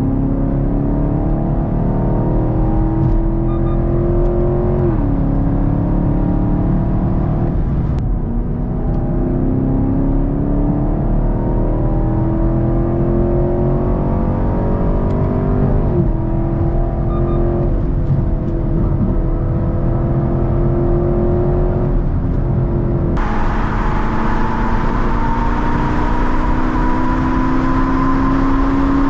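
Chevrolet Camaro V8 with a Borla S-Type exhaust accelerating hard through the gears, heard from inside the cabin. The exhaust note climbs steadily and drops at each upshift, about four times. About three-quarters of the way in, a loud hiss suddenly joins the engine sound.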